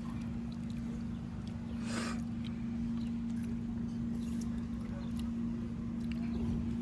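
Passenger boat's engine running: a steady low rumble with a constant hum over it, and a brief hiss about two seconds in.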